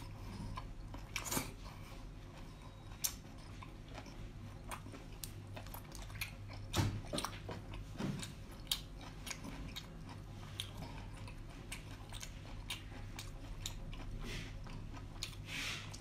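Close-miked eating of cooked shellfish meat: wet chewing and biting with many short mouth clicks and smacks, a few louder bites about 7 and 8 seconds in.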